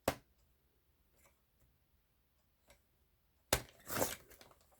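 Paper and craft tools handled on a desk: a sharp click at the start, a few faint ticks, then a louder click with a short rustle about three and a half seconds in.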